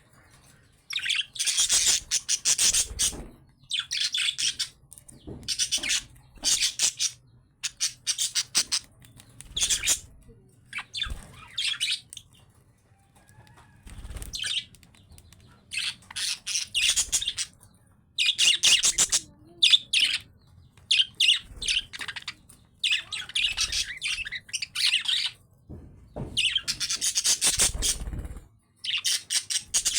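Budgerigars chattering and chirping in fast, warbling bursts, one after another with short pauses between.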